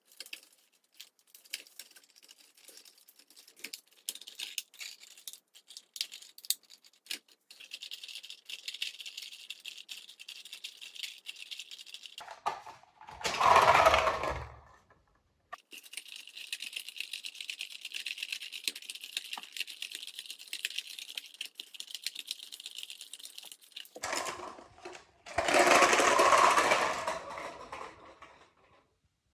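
Propeller of a rubber-band-powered toy car whirring as the twisted band unwinds, in two runs. Each run is a steady high whir that ends in a brief, louder rush. Scattered light clicks come before the first run.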